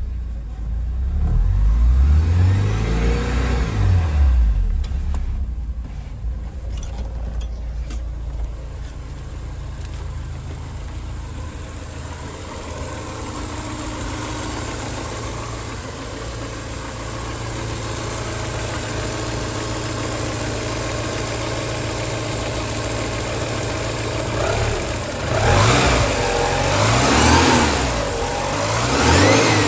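1990 Porsche 944 S2's 3.0-litre four-cylinder engine revved twice in the first few seconds, then settling to a steady idle. Near the end it is blipped up several more times and falls back each time.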